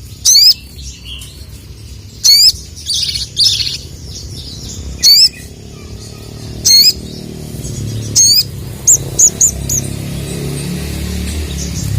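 Sogon (little spiderhunter) calling loudly: sharp, high 'cuit' notes repeated about every one and a half to two seconds, then three short quick notes, over a low rumble that grows louder near the end.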